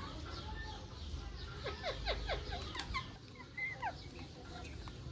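Parrot calling: a quick run of short, falling chirps about a second and a half in, then a single rising-and-falling call near the end, over a steady low rumble.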